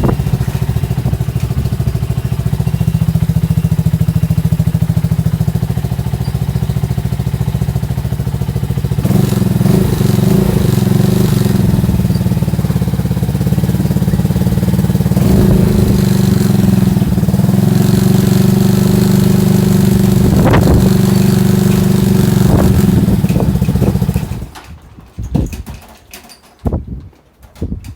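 An engine that can now be started again, running steadily; it picks up a little about nine seconds in, then is shut off suddenly near the end, leaving a few knocks.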